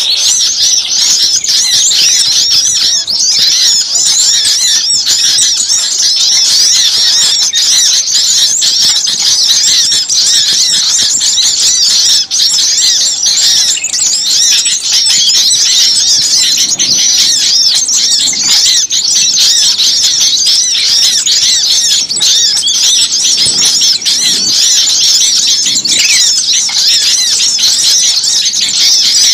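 A dense, unbroken chorus of many small songbirds chirping and calling all at once, with rapid high-pitched notes crowding over each other. It is an agitated mixed-flock racket, the kind played as a lure to draw small birds in.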